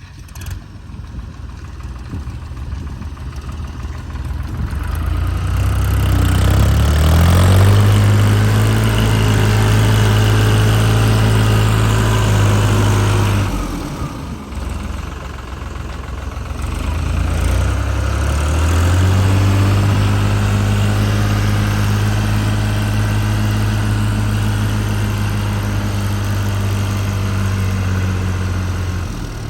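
Yanmar 725 tractor's diesel engine working under load: it revs up and holds steady, eases off about halfway through, then revs up and holds again before dropping off near the end.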